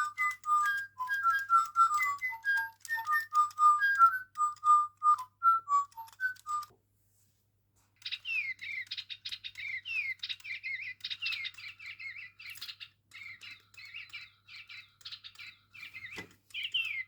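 Electronic toy bird sounding off: first a tune of short, clean beeping notes for about six seconds, then, after a short pause, quick rapid chirps and tweets that slide up and down in pitch.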